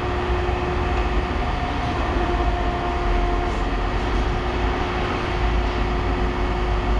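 Steady low machinery rumble with a faint, even hum over it.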